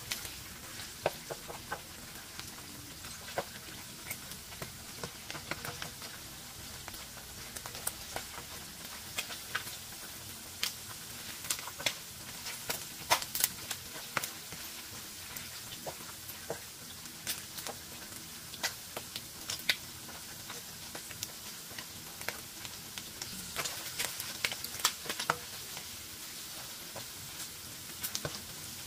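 Gizzards frying in hot oil in a nonstick pan: a steady sizzle dotted with frequent sharp pops and crackles.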